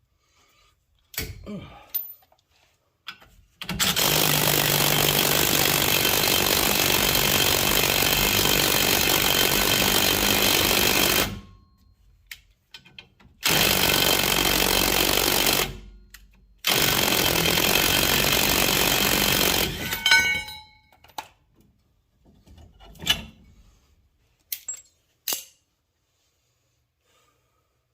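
Pneumatic air tool run hard in three long bursts, the second and third short, with a few clanks and knocks of metal parts in between and after, as the old leaf-spring pin is worked out.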